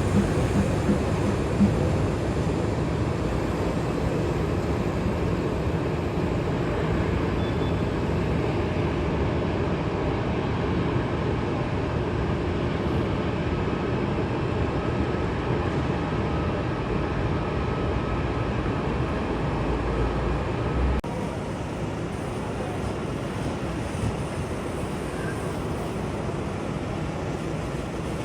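Jet airliner engines running, a steady rumble, which drops suddenly to a slightly quieter level about two-thirds of the way through.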